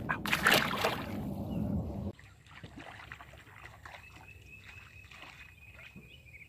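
Water splashing and sloshing for about two seconds, loudest in the first second, then cutting off abruptly to a much quieter stretch with faint rustling.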